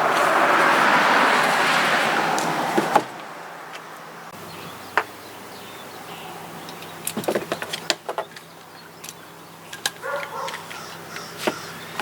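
A loud rushing noise that cuts off suddenly about three seconds in, then scattered light clicks and taps of two-part rivets being fitted into the holes of a wooden saw handle.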